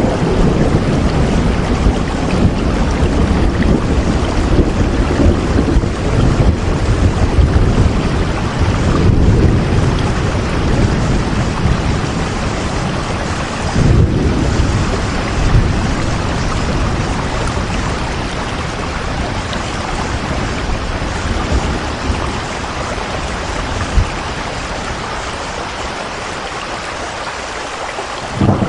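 Steady rain with a low, uneven rumble underneath that eases off through the second half.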